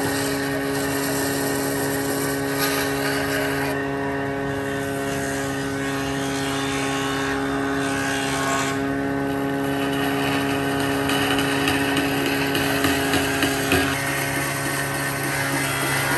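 A woodworking power tool's motor running steadily, a constant hum of several steady tones with a noisy whir above it.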